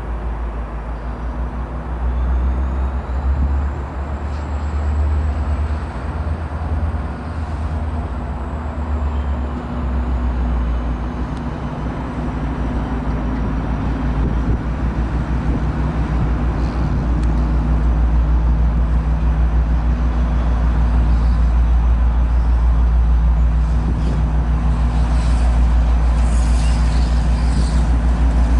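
Diesel passenger locomotive engine running with a steady low drone, growing louder about halfway through as the train draws closer.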